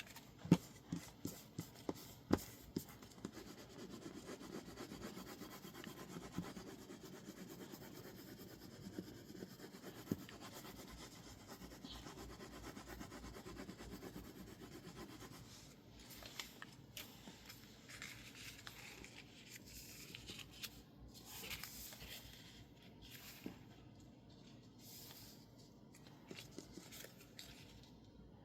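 Paper and tape being handled on a desk: a few sharp taps at the start, then about twelve seconds of steady rubbing, typical of pressing masking tape down onto a label sheet. After that come scattered short papery strokes and rustles.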